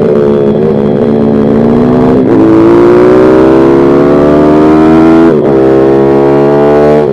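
Single-cylinder pit bike engine pulling hard under acceleration. Its pitch climbs steadily, then drops suddenly at an upshift just over five seconds in, and climbs again until another shift near the end.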